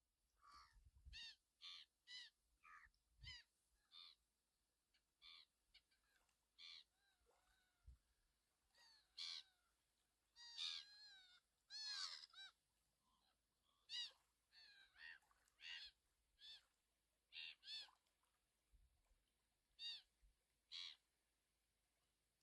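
Birds calling outdoors: a run of short, sharp calls at irregular intervals, about one a second at times and with gaps between, some with a quick rise and fall in pitch.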